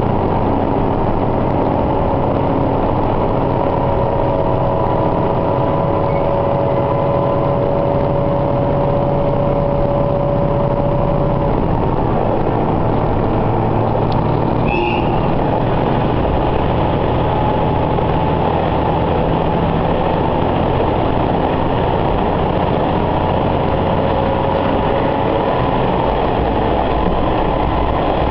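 Diesel railcar running, heard from inside the passenger cabin: a steady engine drone with rolling noise and a held whine that fades out partway through, plus a brief faint squeak about halfway.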